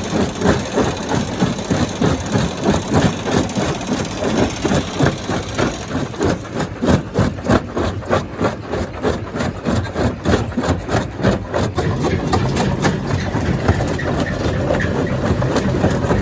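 Stone crusher plant machinery running with an even pulsing of about three beats a second. It settles into a steadier, lower hum about twelve seconds in.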